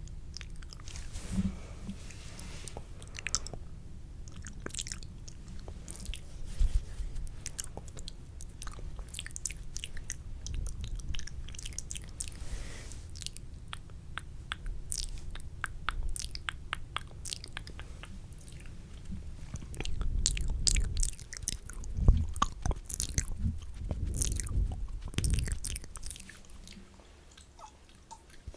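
Wet, spitty ASMR mouth sounds close to the microphone: irregular clicks, smacks and saliva crackles, with louder low thuds from contact with the mic in the second half.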